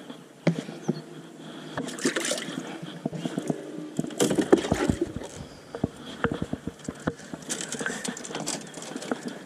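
Water splashing and sloshing in a bass boat's livewell while a fish is culled, with scattered knocks and clicks; busiest around the middle.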